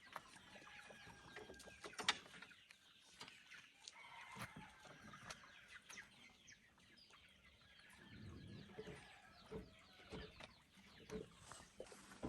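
Chickens clucking faintly, with a few scattered light clicks.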